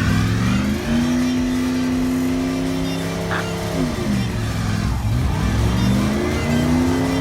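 A car engine revved up and held at high revs for close to three seconds, dropping back about four seconds in, then revved up and held again.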